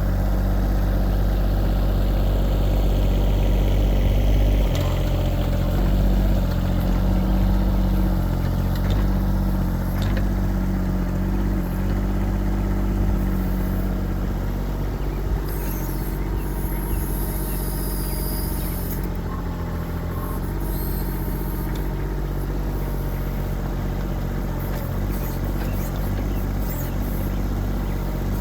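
Kubota diesel engine of a 1.6-ton mini excavator running steadily, its pitch stepping up about five seconds in and easing back down about halfway through as the load changes.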